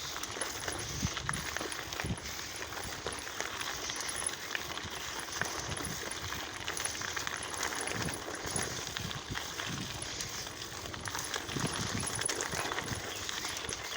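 Lowrider bicycle being ridden: tyres rolling over pavement with steady road noise, and irregular light metallic clicking and rattling from the bike, plus occasional low thumps.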